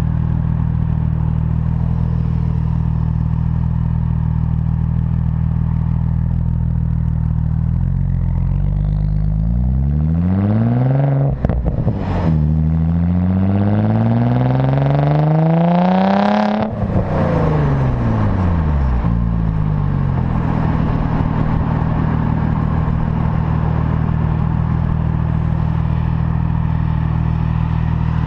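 APR Stage 2+ tuned Audi S4 idling through its dual exhaust, then revved twice: a short rev that drops off sharply, then a longer climb that is cut off suddenly and falls back to a steady idle.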